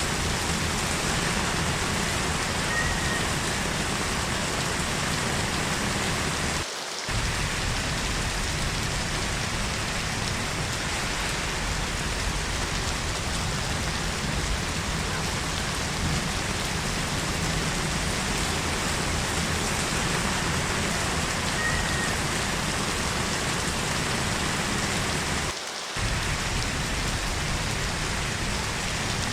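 Heavy rain falling steadily, an even dense hiss, with two brief dips in level, one about seven seconds in and one late on.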